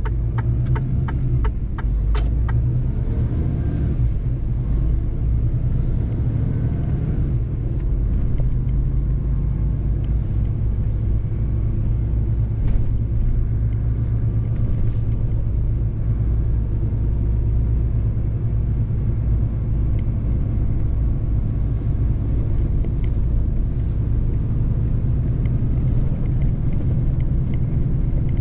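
Mercedes-Benz truck's diesel engine running steadily under way, a constant low drone with road rumble. A run of quick sharp clicks, about three a second, sounds in the first couple of seconds.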